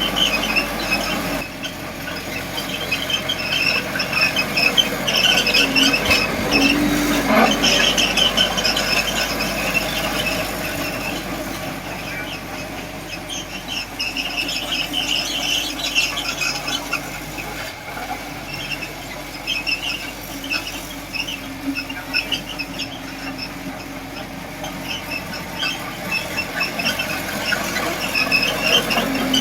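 Small D20P crawler bulldozer at work, its steel tracks squealing again and again in high-pitched squeaks over the engine's steady running.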